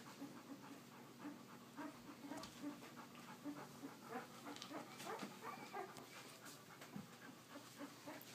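Faint, irregular dog sounds from a litter of young puppies and their mother: soft panting with small squeaks.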